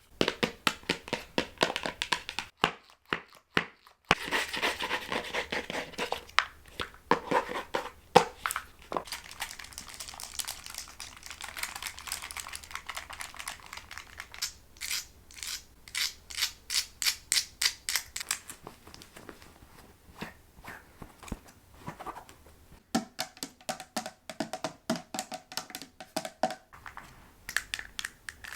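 A quick succession of ASMR trigger sounds close to the microphone, changing every few seconds: fast tapping, scratching and crinkling on different objects. There is a short pause about two and a half seconds in, and a steady tone under the taps from about twenty-three to twenty-six seconds in.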